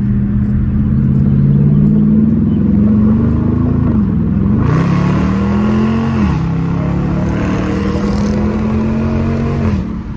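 Dodge Challenger R/T's 5.7-litre Hemi V8, with a mid-muffler delete, heard from inside the cabin as the car accelerates. The engine note climbs, drops at upshifts about four and six seconds in, holds steady, then eases off near the end.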